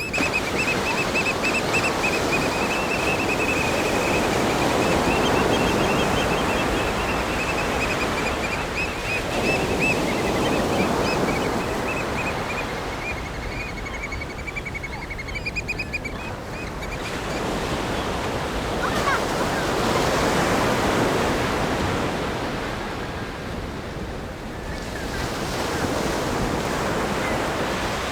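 Ocean waves breaking against a rock groin and washing up the sand, swelling and falling back in several surges. A thin, high wavering tone runs alongside the surf and stops about two-thirds of the way through.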